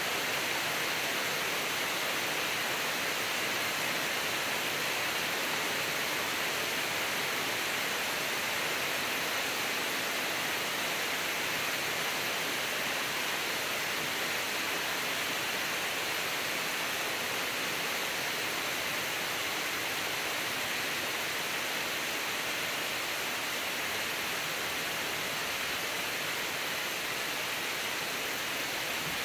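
Steady rain falling on trees and lawn in woods: an even hiss with no breaks.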